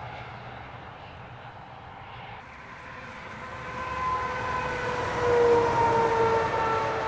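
A vehicle passing by: a droning tone that grows louder to a peak about five and a half seconds in, its pitch sagging slightly as it goes.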